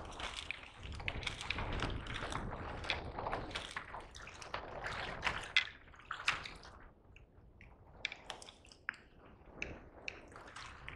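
Seawater sloshing and splashing around a kayak, with drips and small sharp knocks; the wash is strongest for the first six seconds, then settles into scattered splashes and drips.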